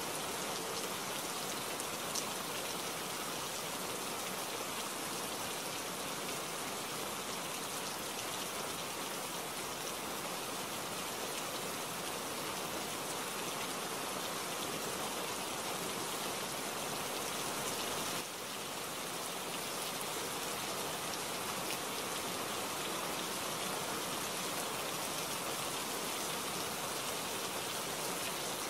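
Steady rain falling: a dense, even hiss of countless drops. A single sharper tick comes about two seconds in, and the level dips briefly about eighteen seconds in.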